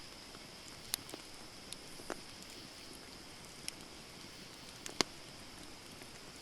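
Wood fire crackling: scattered sharp pops and snaps over a steady hiss, the loudest pop about five seconds in.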